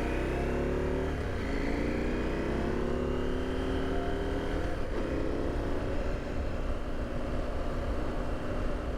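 2022 KTM 890 Adventure R's parallel-twin engine accelerating through the gears: revs rise, fall at an upshift about a second in, climb again and fall at a second shift near five seconds, then run fairly steady.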